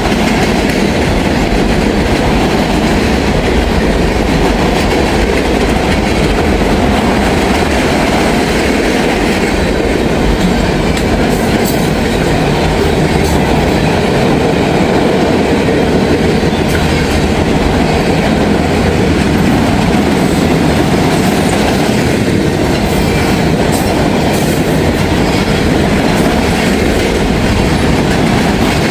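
Long freight train's cars rolling past close by: a loud, steady rumble of steel wheels on rail.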